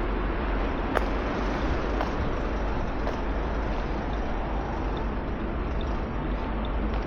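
Steady road traffic noise from a busy city street, an even dense rumble, with three sharp clicks about a second apart early on.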